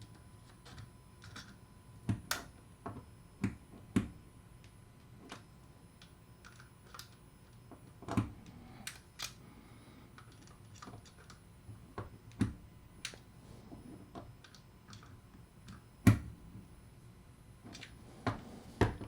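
Irregular clicks and knocks of small metal parts and hand tools being handled while a machined-aluminium star drag fishing reel is reassembled and tightened. The sharpest knock comes about two thirds of the way through.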